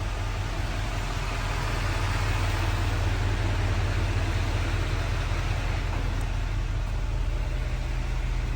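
Chevrolet Silverado 3500's 6.6-litre Duramax turbodiesel V8 idling steadily, a constant low rumble.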